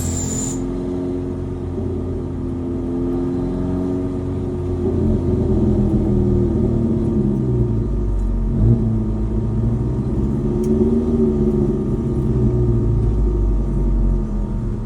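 Twin-turbo Mitsubishi Mighty Max pickup's engine running under way, its note rising and falling a few times as it pulls and eases off, with a brief high whistle falling in pitch at the very start.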